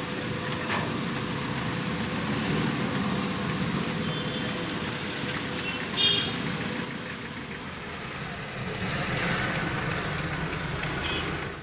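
Steady vehicle and engine noise with a constant hum, broken by a few short high-pitched sounds, the loudest about six seconds in.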